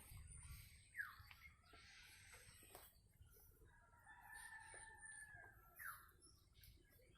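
A rooster crowing faintly, one long held crow starting about four seconds in, with short falling chirps of small birds around it.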